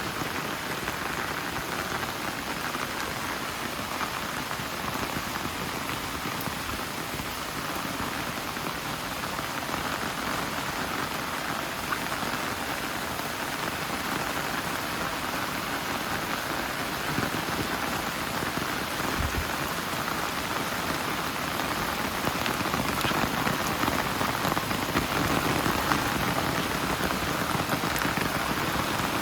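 Steady rain falling, getting a little louder in the last third.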